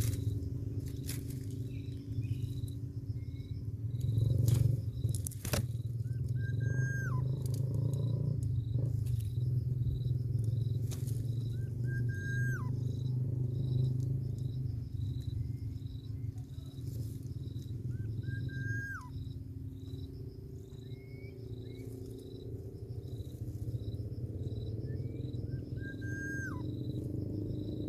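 Outdoor wildlife ambience: a bird gives a short whistled call that rises and then drops, four times and evenly spaced, over an insect's steady pulsing call and a constant low rumble.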